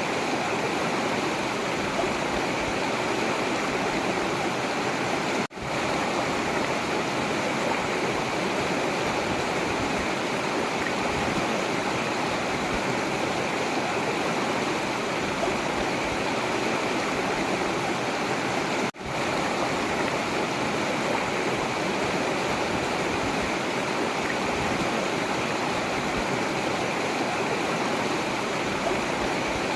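Forest river flowing, a steady rush of water, with two momentary dropouts about five and nineteen seconds in.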